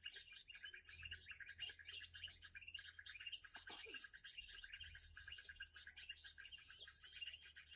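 Small songbirds chirping: a dense, rapid run of high, repeated chirps without a break, faint overall.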